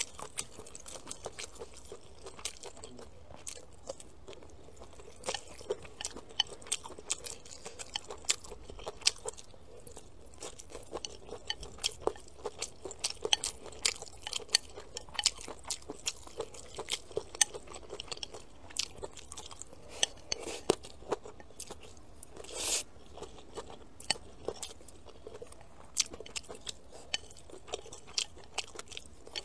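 Close-up chewing and crunching of food, including stir-fried chicken feet, rice and vegetables: a dense, irregular run of sharp wet clicks and mouth sounds. One longer, louder noisy sound comes about three-quarters through.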